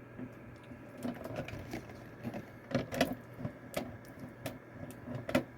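Irregular small clicks and taps of something being handled, starting about a second in, over a steady low hum.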